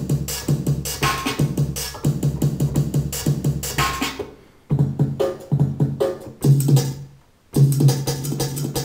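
Rave breakbeat drum loops played on a Korg microSAMPLER: fast, busy drum hits with a heavy bass beat. The loop stops for a moment twice, once about halfway and again near the end, then restarts.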